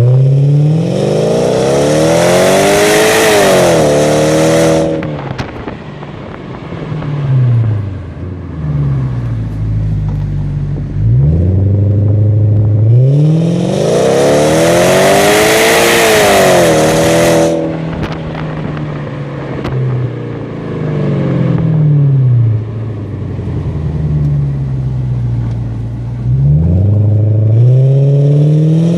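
Audi A8 4.2 V8 with the muffler deleted, revved hard and let fall back to a lower speed: two long rises to high revs, short blips between them, and another climb starting near the end.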